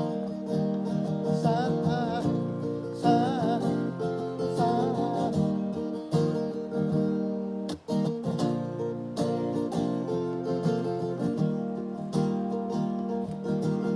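Acoustic guitar strumming chords, with a wordless, wavering sung melody over it for a few seconds near the start. The strumming breaks off briefly about eight seconds in and carries on.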